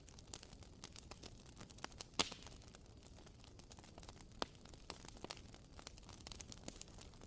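WoodWick candle's wooden wick crackling: faint, irregular pops and ticks like a small campfire, with one louder pop about two seconds in.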